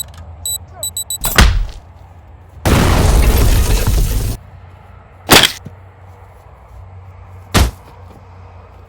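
Hard impacts and a crash: a sharp hit about a second and a half in, a loud crashing noise lasting nearly two seconds about three seconds in, then two more single hard hits, about five and seven and a half seconds in.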